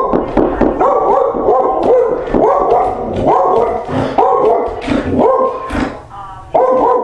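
A dog barking and yipping over and over, about one bark a second.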